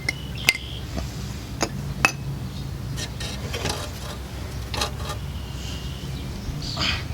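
Metal brake parts and hand tools clinking and scraping as they are handled. There are two sharp, ringing clinks in the first two seconds, then softer scrapes and clicks, over a steady low hum.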